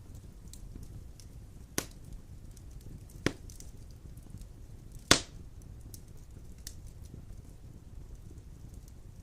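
Large logs burning in a wood fireplace: a steady low rumble of the flames with light crackling, and three sharp pops, the loudest about five seconds in.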